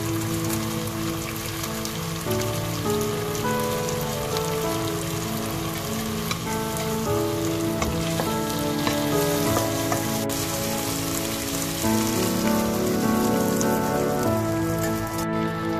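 Broccoli, carrot and egg tofu sizzling in a wok while a wooden spatula stirs them, with a few scrapes and taps, over melodic background music. The sizzling cuts off suddenly near the end.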